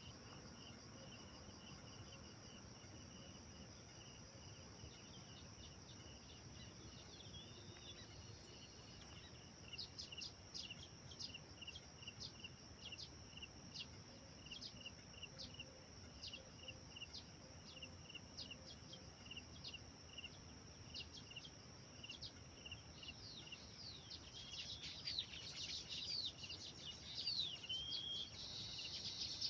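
Small birds chirping over a steady high insect drone. A faint repeated chirp runs about twice a second. From about a third of the way in come regular sharp chirps, and near the end a burst of varied, sweeping song notes.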